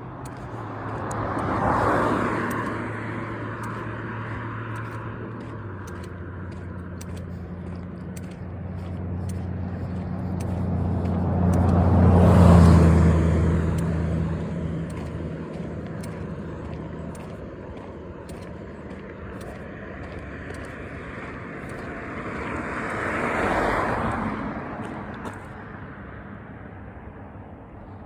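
Three motor vehicles passing one after another on a road, each swelling up and fading away. The loudest pass, about twelve seconds in, carries a deep engine hum.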